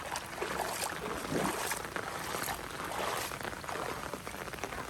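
Rain falling and water running: a steady hiss with a few louder spatters.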